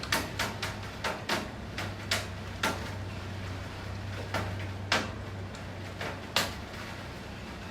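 Steady rain with heavy drops striking a hard surface in sharp, irregular taps, close together for the first few seconds, then sparser; the loudest come about five and six and a half seconds in. A faint low hum sits under the first part.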